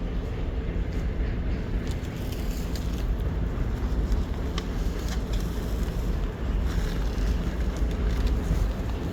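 Wind buffeting the microphone: a loud, uneven low rumble that rises and falls, with a few faint clicks.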